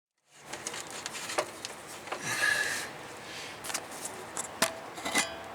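Hand work on a brake line and tools: scattered light clicks and taps, with a short scraping rub about two seconds in.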